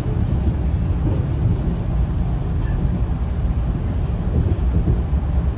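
Steady low rumble of a Metro-North passenger train running along the track, heard from on board.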